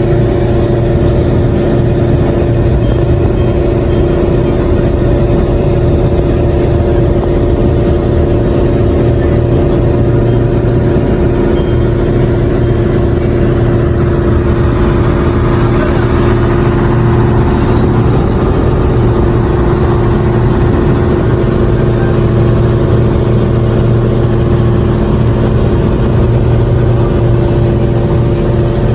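A boat engine running steadily at constant speed, a loud, even drone with a fixed pitch.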